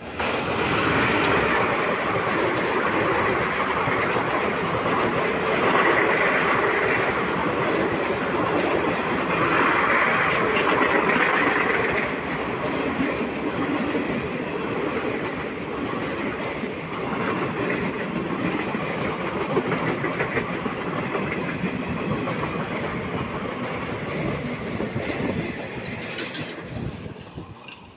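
Indian Railways electric-hauled passenger train passing close by at speed: continuous wheel and coach noise, loudest in the first half and dying away over the last couple of seconds.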